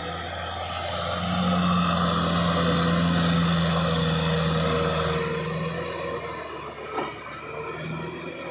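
Kubota tractor engine running steadily, its hum rising about a second in and easing after about five seconds, with a single sharp knock about seven seconds in.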